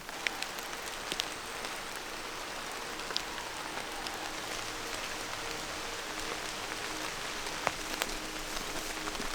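Rain falling in a forest: a steady hiss with scattered sharp drips.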